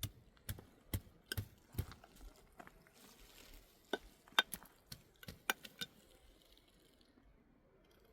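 A series of sharp knocks and clicks: the first five about half a second apart, then a scattered handful, stopping about six seconds in.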